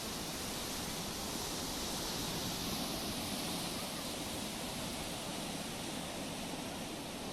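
Sea surf: a steady wash of waves on the shore that swells a little a couple of seconds in.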